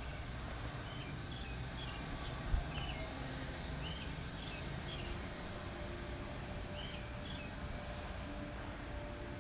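Small bird chirping in short repeated calls over a steady low background rumble, with a single thump about two and a half seconds in.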